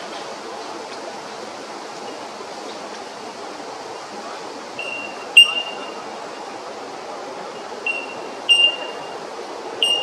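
Red wattlebird calling: about five short, sharp calls in the second half, the loudest about five seconds in, over a steady background hiss.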